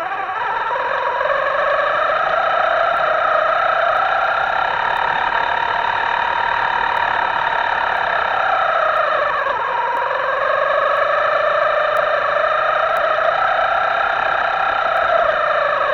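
Electric motor of a radio-controlled boat whining, its pitch rising and falling with the throttle, dipping about two thirds of the way through and then climbing again.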